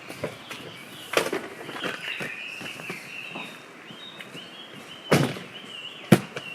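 Handling noises with three sharp knocks, about a second in, a little after five seconds and just after six seconds, with lighter clicks between. A high wavering chirping runs steadily behind them.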